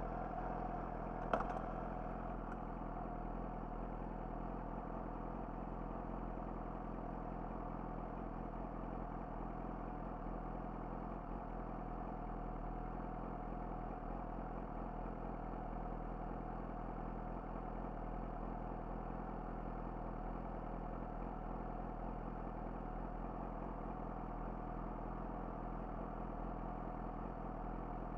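Yamaha YZF-R6's inline-four engine running steadily through an Akrapovic slip-on exhaust, with no revving. There is a sharp click about a second in.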